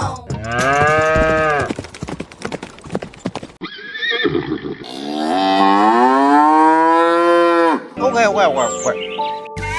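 Farm-animal calls: two long, drawn-out cow moos, with shorter, higher calls between and after them.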